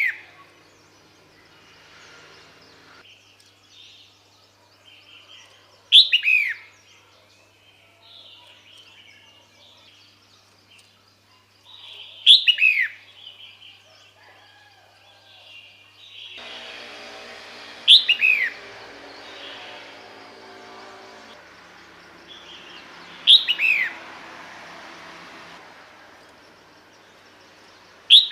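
Female red-whiskered bulbul calling, the call used to draw males: a short call of falling notes, repeated about every six seconds.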